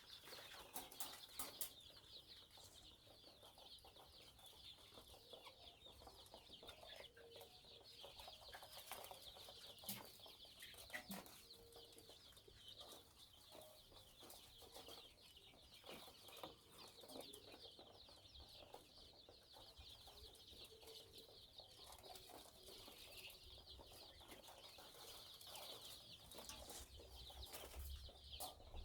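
A brood of week-old chicks peeping continuously in a dense, high chorus, faint overall, with scattered light taps and clicks.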